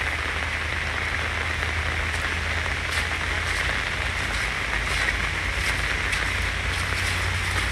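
Heavy rain falling steadily: a dense, even hiss with scattered drop ticks and a steady low rumble beneath.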